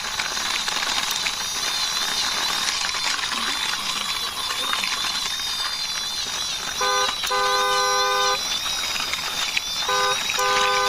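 A toy vehicle is rolled along by hand, with a steady rolling hiss. A horn sounds twice, each time a short beep followed by a longer one: about 7 s in and again near the end.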